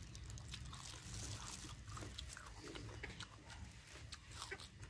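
Faint chewing and mouth sounds of people eating, with scattered small wet clicks and smacks.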